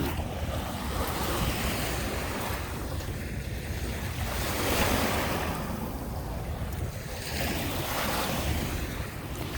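Lake Michigan waves washing onto the beach, swelling and fading about every three seconds, with wind buffeting the microphone.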